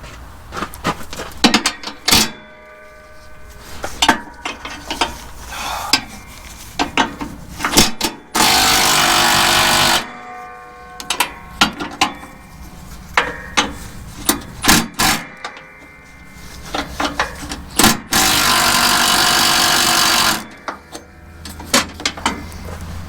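A power tool runs in two steady bursts of about two seconds each, about eight and eighteen seconds in, between scattered clanks and taps of tools on metal.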